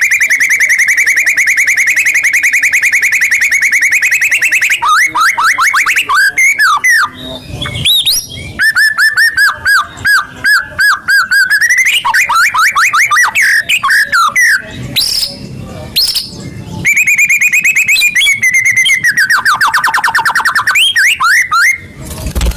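White-rumped shama (murai batu) singing loudly: long, very fast trills alternating with quick rising and falling whistled phrases, with a few brief pauses. It is the kind of song played as a lure to set a caged shama singing.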